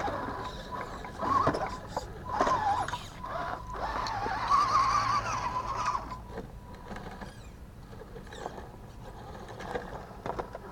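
Radio-controlled rock crawler truck's electric motor and gears whining, the pitch rising and falling with the throttle, loudest about four to six seconds in, with scattered clicks and knocks.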